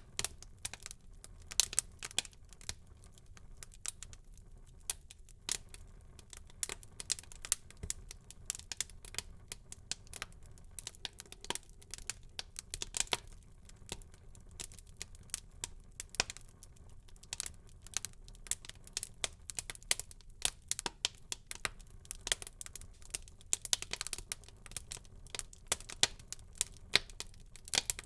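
Wood fire burning in a fireplace, crackling with many irregular sharp pops and snaps over a faint low rumble of the flames.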